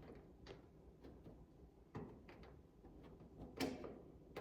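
A few faint, scattered clicks and knocks of hand tools and fastener hardware being worked while fitting a spoiler, with a sharper knock near the end.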